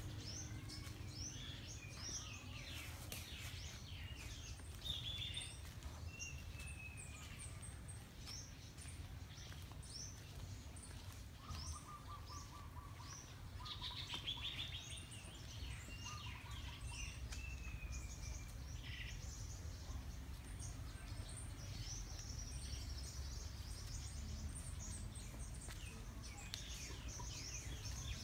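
Several birds chirping and calling with many short, quick notes and a few falling whistles, over a steady low rumble.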